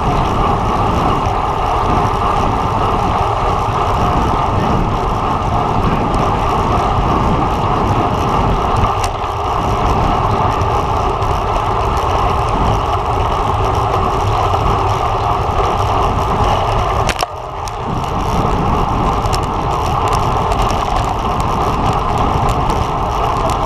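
Steady rush of wind and road noise from riding a road bike at race speed, with wind on the microphone. The level dips briefly about 17 seconds in.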